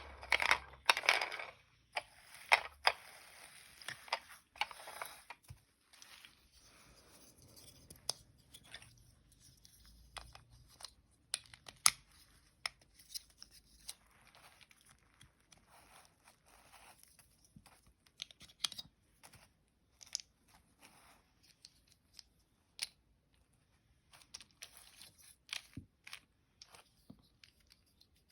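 Small toy parts being handled: scattered sharp clicks and taps, with scraping and rustling in the first few seconds.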